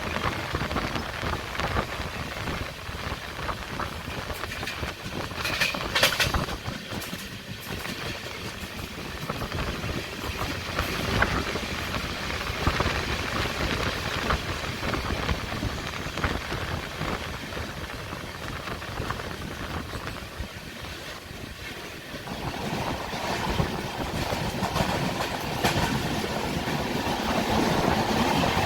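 Rajdhani Express coaches running along the track, a steady rumble and rattle with the wheels clicking over rail joints; it grows louder over the last few seconds.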